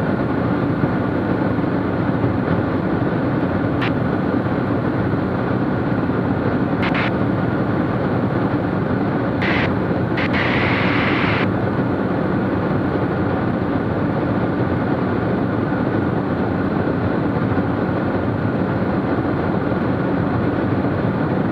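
Steady drone of a Cessna T210's turbocharged six-cylinder piston engine and propeller, heard from inside the cabin in flight. There are a few short clicks and a brief hiss about ten seconds in.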